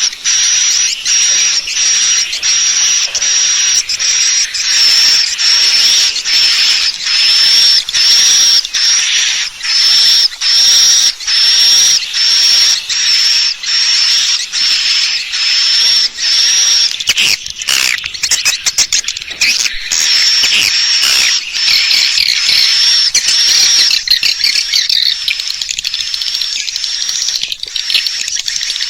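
Swiftlet calls: a high twittering chirp repeated about one and a half times a second, giving way partway through to a faster, denser chatter of clicks and twitters. This is the call-and-roost lure sound played to draw swiftlets into a nest house.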